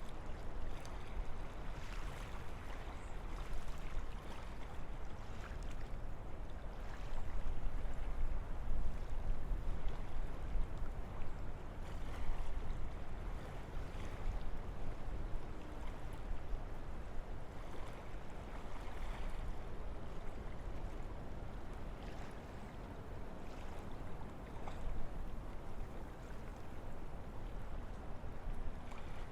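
Wind blowing through forest trees: a steady rushing with a deep rumble underneath, swelling a little in a gust about a third of the way through.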